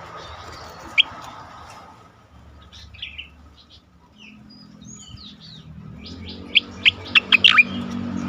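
Cica koreng (striated grassbird) singing: a single sharp note about a second in, a few scattered whistled phrases in the middle, then a quick run of loud, sharp falling notes near the end, over a faint low hum.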